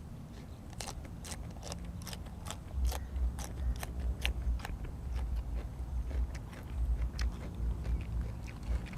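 A person chewing and biting food close to the microphone, with many small crisp clicks and crunches and repeated low thuds from about three seconds in.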